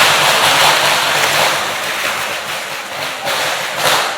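A loud, steady rushing roar of noise, with two short louder bursts about three and four seconds in.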